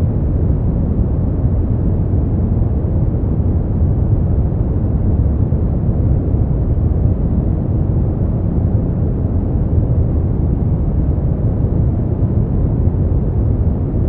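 Steady brown noise: a deep, even rumbling hiss, strongest in the low bass and falling away toward the treble, with no changes.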